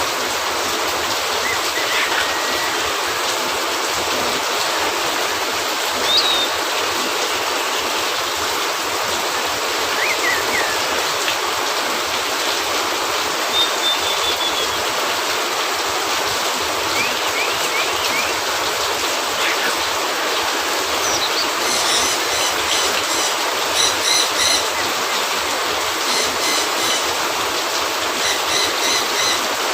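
Steady rain falling, with a few short bird chirps scattered through it and, in the last several seconds, bursts of high repeated chirping.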